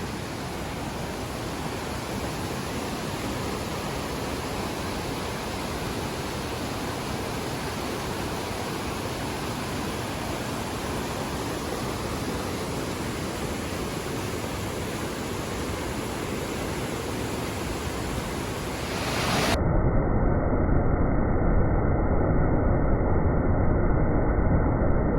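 Ryuzu Falls' cascading water, a steady even rush. About 19 seconds in it becomes louder and duller, with the high end cut away.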